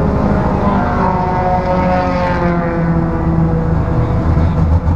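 Neon race car's four-cylinder engine running steadily at idle, heard from inside the stripped, caged cabin. A higher engine note slowly falls in pitch in the middle.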